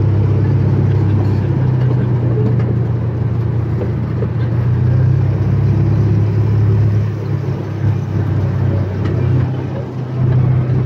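A small excursion train running steadily, with a low engine drone and running noise heard from aboard an open-sided car. The drone eases briefly near the end.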